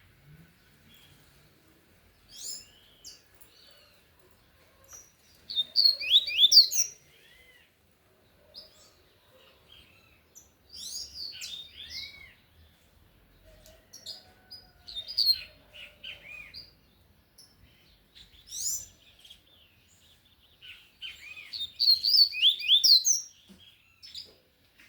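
Double-collared seedeater (coleiro) singing loudly in the Tui-Tui song type: about five bursts of quick, high, sliding chirps with short pauses between them.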